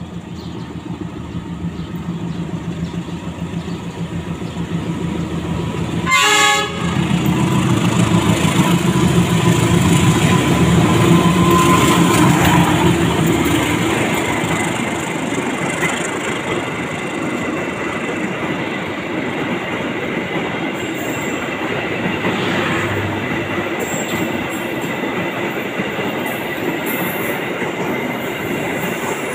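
Sribilah Utama passenger train passing close by. The diesel locomotive grows louder as it approaches and peaks about ten seconds in, with a short loud burst about six seconds in. The passenger carriages then roll past, their wheels clacking over the rail joints.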